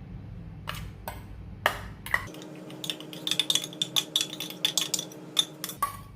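Kitchen utensils clinking and scraping against a dish: a few separate knocks, then a quick run of light clicks and clinks for about three seconds.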